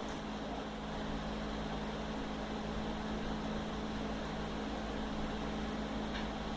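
Steady machine hum with a strong low drone, unchanging throughout.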